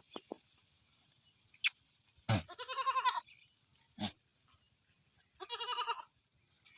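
A goat bleating twice, each call a wavering, quavering bleat under a second long, with a few sharp knocks between the calls.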